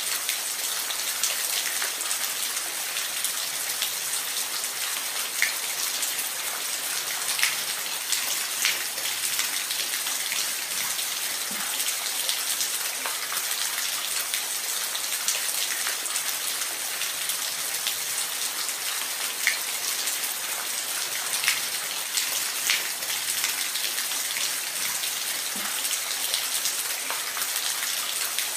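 Steady rain falling, an even hiss with individual drops ticking sharply every second or so.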